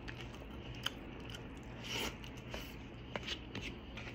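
A person chewing food close to the microphone: scattered mouth clicks and smacks, with a short rustle about two seconds in, over a faint low hum.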